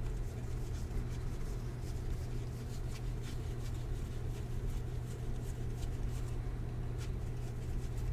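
Baseball trading cards and foil pack wrappers being handled, with faint rustling and many light ticks, over a steady low hum.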